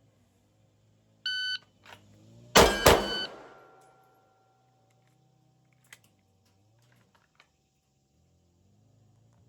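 Electronic shot-timer start beep, then two pistol shots about a third of a second apart, followed by a ringing tone that fades over a few seconds, like a hit steel target.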